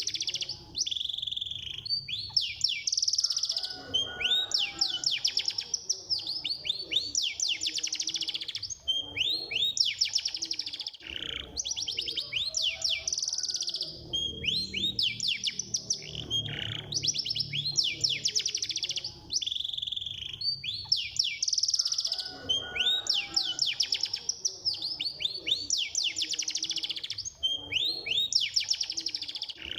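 Domestic canary singing a fast, dense song of rapid repeated trills and sweeping chirps, in long phrases broken by brief pauses. It is the fast, tight 'speed' style of canary song, played to get other canaries to answer and sing.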